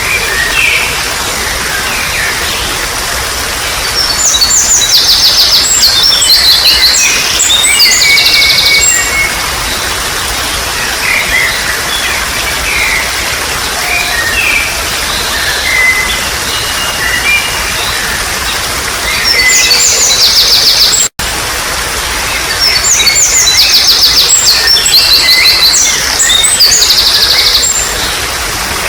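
Steady babbling water with wild birds singing over it: rapid high trills come in two long bursts, with scattered chirps between them. The sound cuts out for an instant about two-thirds of the way through.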